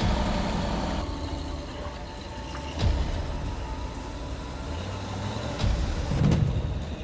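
Off-road 4x4's engine running steadily, with a sharp knock about three seconds in and the engine getting louder around six seconds.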